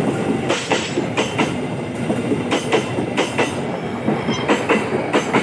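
Railway carriages passing by, the wheels clacking over rail joints in pairs of sharp clicks that repeat about every two-thirds of a second over a steady rolling rumble.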